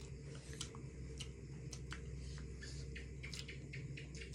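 Close-miked wet chewing and lip-smacking of someone eating chicken biryani with their fingers: a string of short, moist mouth clicks, coming in a quicker run about three seconds in.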